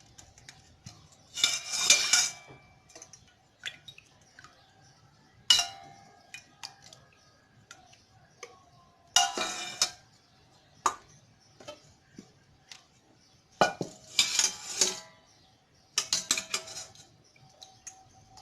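A spoon clinking and scraping against a pot and plastic ice-pop moulds as lemon syrup is spooned into the moulds, in short bursts every few seconds with single clicks between.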